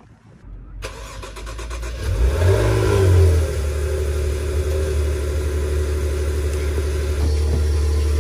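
Car engine starting, revving up to a peak about two to three seconds in, then settling into a steady idle.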